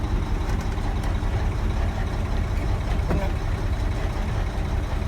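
Tractor-trailer's diesel engine idling steadily just after start-up, a low steady rumble.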